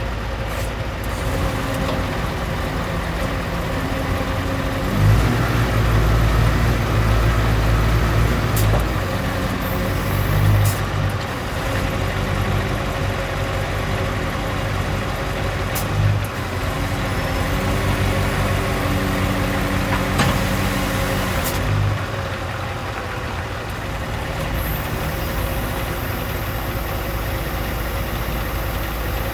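Scania R520's V8 diesel truck engine running, idling steadily, with the engine speed raised from about five seconds in until about twenty-two seconds in, then settling back to idle.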